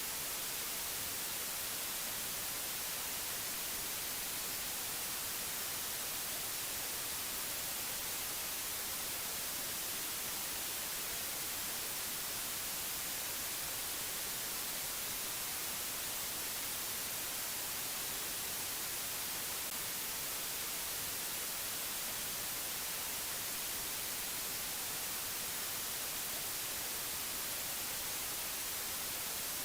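Steady, bright white-noise hiss, even and unchanging throughout, with no other sounds in it.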